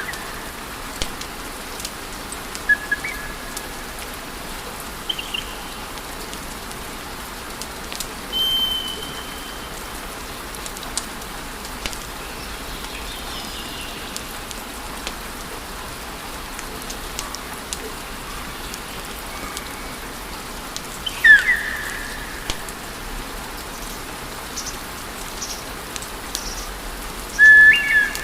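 Wood fire burning: a steady hiss with scattered crackles and pops, and a few short high whistling tones several seconds apart, the loudest about two-thirds of the way through and just before the end.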